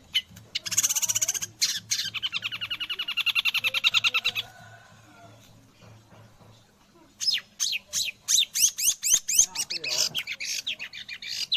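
Long-tailed shrike singing, its song laced with mimicked white-rumped shama phrases: a fast, rattling run of repeated high notes for about four seconds, a pause, then a quick series of rising chirps.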